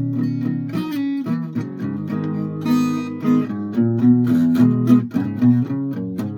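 A guitar being strummed and picked, with chords changing every second or so.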